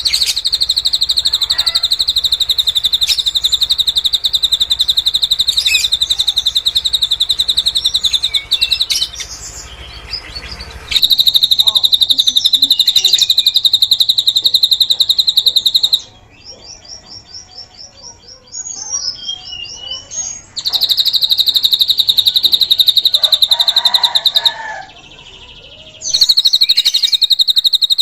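Drongo (srigunting) singing cililin-style mimicry: a loud, very fast, high trill of evenly repeated notes, held for several seconds at a time and broken by short pauses. In the longest pause, about halfway, a quieter and even faster run of thin, higher notes.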